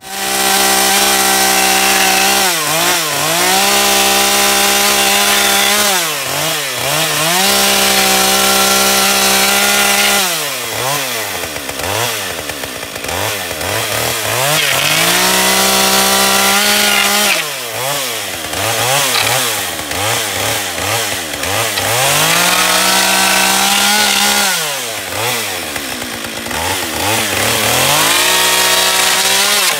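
Two-stroke chainsaw running at full throttle, cutting a hole through the wooden end wall of a building. It drops back toward idle and revs up again about six times.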